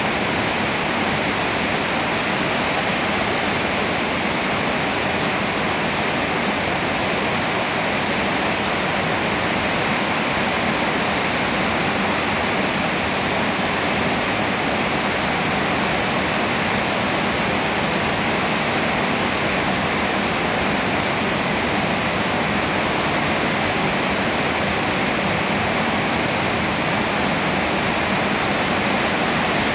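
Steady rain falling on leafy trees, an even, unbroken hiss.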